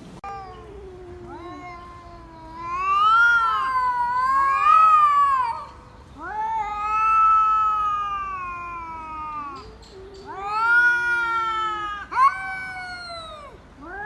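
Cat yowling: about four long, drawn-out calls in a row, each wavering up and down in pitch, with a second yowling voice overlapping the first call.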